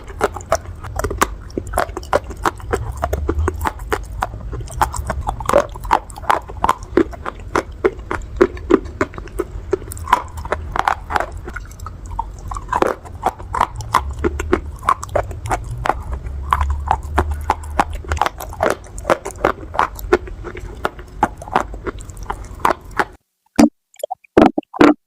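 Close-miked crunching and chewing of pieces of dry clay: a dense, irregular run of sharp crunches. The crunching cuts off suddenly near the end, and a few short synth notes follow.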